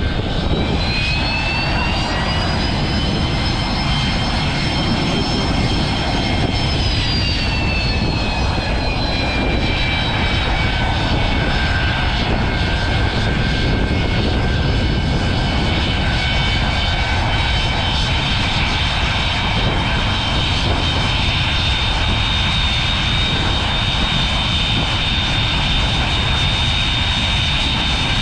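Boeing 737-200 Advanced's Pratt & Whitney JT8D low-bypass turbofan engines running at taxi power, a loud rumble under a high-pitched whine. The whine creeps up over the first few seconds, falls about seven seconds in, then holds steady.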